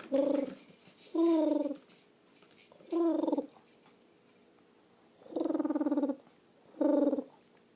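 Five short, buzzing, purr-like vocal noises made by a person, each lasting under a second with short pauses between, a few dipping slightly in pitch.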